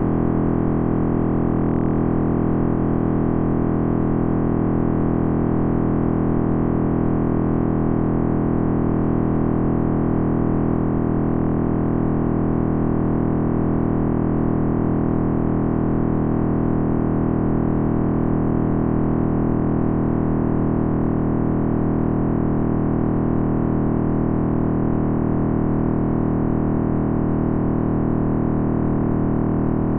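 Computer simulation of the sound of the Big Bang: a dense, steady synthetic drone made of many low tones sounding together, holding at an even loudness and drifting only very slowly.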